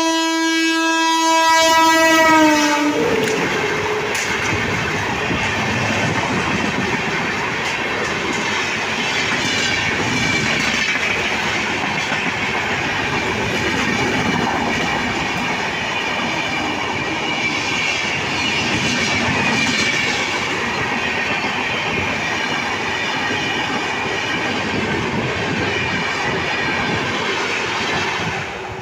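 An electric locomotive's horn sounds long as the express comes through at speed, its pitch dropping about three seconds in as the locomotive passes. Then the coaches' wheels rush and clatter on the rails, loud and steady, until the last coach clears near the end.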